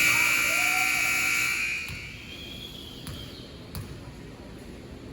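Basketball scoreboard buzzer sounding in a gym, a sustained electric tone that fades out about two seconds in, followed by lower hall noise with a couple of sharp knocks.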